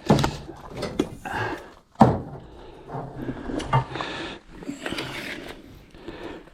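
Knocks and rattles of tools and materials being handled, with a few sharp knocks, the loudest about two seconds in.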